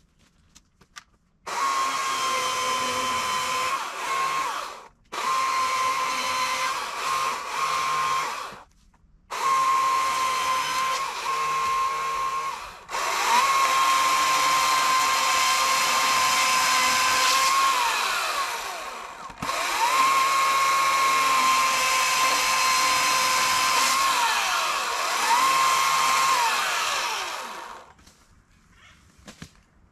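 EGO CS2005 20-inch battery-electric chainsaw cutting firewood: a high, steady motor whine in five runs separated by short pauses. The pitch sags and recovers a few times as the chain bites into the wood. It stops near the end.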